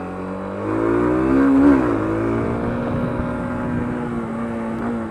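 Yamaha YBR125's single-cylinder four-stroke engine accelerating: its pitch rises for about a second, drops sharply at a gear change, then holds steady as the bike pulls on, with wind noise on the microphone.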